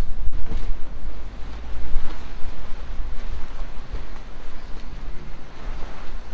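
Wind buffeting the microphone: a gusty, uneven low rumble with a rushing hiss over it.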